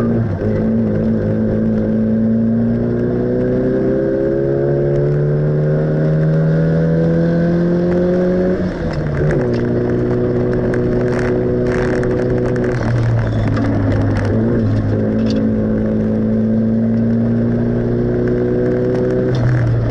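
Small car's engine heard from inside the cabin while lapping a racetrack: revs climb slowly for about eight seconds, drop sharply, then hold nearly steady with brief dips, over constant road and wind noise.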